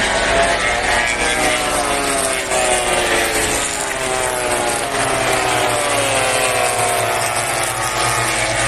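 MotoGP race motorcycles with four-stroke prototype engines passing at racing speed, several at once, their engine pitch sliding down as they go by.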